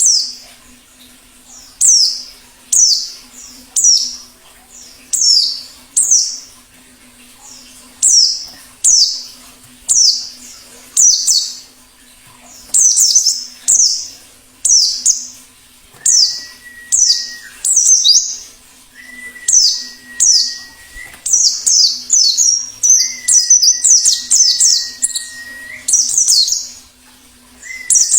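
Wild white-eye (pleci) calling: short, high notes that fall in pitch, about one a second at first, then coming faster and overlapping in the second half. A faint low hum runs underneath, and from about halfway a steady whistle-like tone sounds four times, each held for a second or two.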